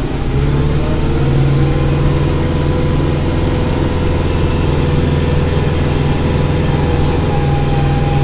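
Kubota tractor's diesel engine running steadily under load while pushing snow with the front-end loader, heard from inside the cab.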